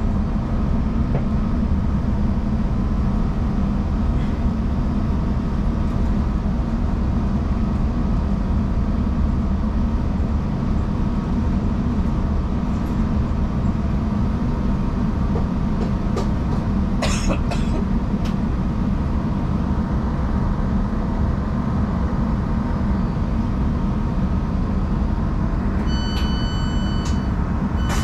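Steady low rumble of a diesel passenger train heard from inside the carriage as it runs into a station. There is a brief rattle of clicks about two-thirds of the way through, and an electronic beep sounds twice near the end.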